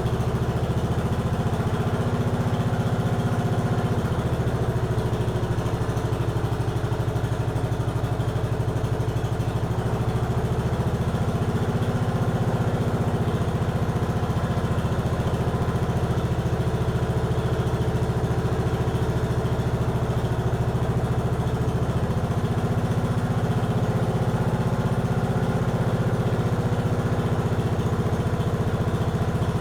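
Briggs & Stratton engine of a 1953 Economy Country Squire garden tractor running steadily, its pitch shifting slightly a few times.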